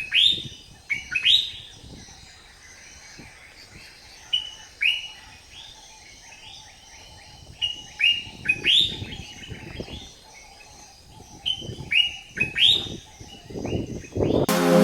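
A bird giving short, sharp chirps in clusters of two to four every few seconds. Music cuts in abruptly at the very end.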